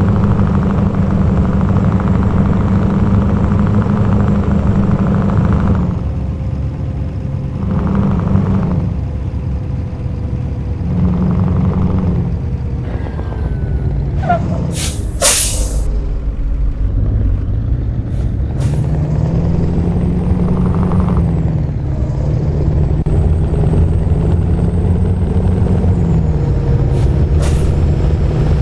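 Scania R-series V8 diesel truck engine running, held at raised revs at first, then dropping back with short blips of the throttle and another longer spell at higher revs. About midway comes a loud, sharp hiss of released air from the truck's air system, with smaller hisses later.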